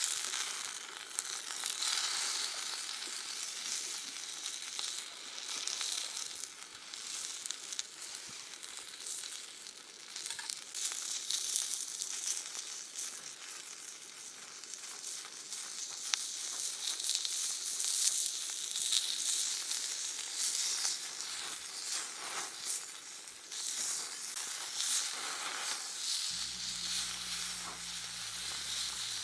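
Food sizzling in a pan over a campfire, a steady crackling hiss that swells and eases. A low steady hum joins near the end.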